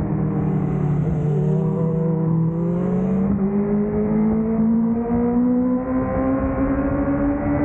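Honda CBR1000RR-R Fireblade's inline-four engine heard from on board. It runs at fairly low revs for the first few seconds, then the rpm climbs slowly and steadily as it pulls out of the corner.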